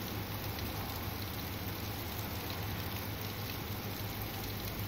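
Steady rain falling during a thunderstorm, an even hiss of drops with a steady low hum underneath.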